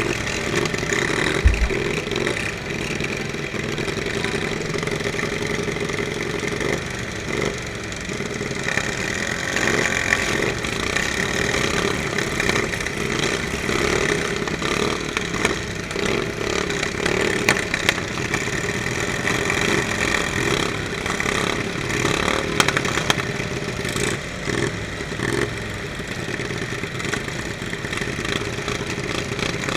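Racing riding lawn mower engines running, with scattered sharp knocks.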